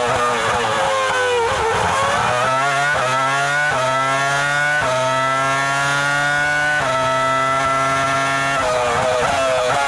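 Formula 1 V10 engine heard onboard: it winds down through downshifts under braking, then accelerates hard up through the gears with several quick upshifts, each a sudden drop in pitch followed by a rising scream, and starts braking and downshifting again near the end.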